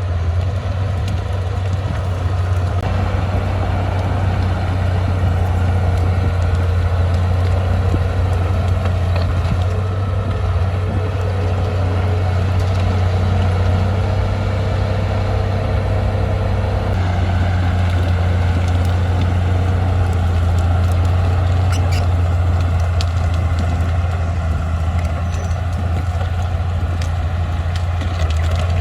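Diesel engine of a small crawler bulldozer (Komatsu D20P) running steadily while working, a continuous low drone. A faint higher whine sits over it and drops away about halfway through.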